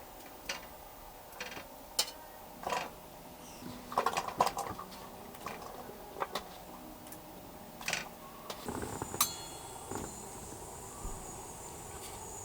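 Scattered light clinks and knocks of dishes and utensils being handled, irregular, with a busier flurry about four seconds in. A faint thin high tone holds steady through the last few seconds.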